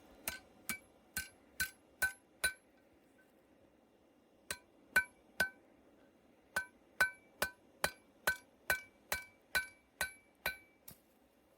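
Hammer blows ringing on steel over an anvil-shaped object, about two strikes a second: six, a pause, three, another pause, then about ten more.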